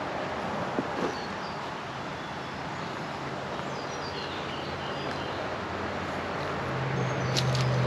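Road traffic: a passing vehicle's steady engine hum that grows louder over the second half and is loudest near the end, over a constant wash of road noise. A small bird calls midway with a short series of high notes stepping downward.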